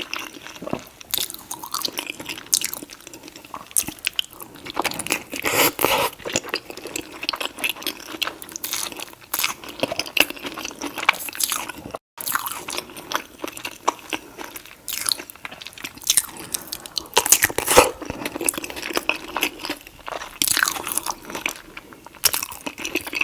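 Close-up eating sounds: biting and chewing saucy seafood boil, with wet smacking and crunchy bites repeating irregularly.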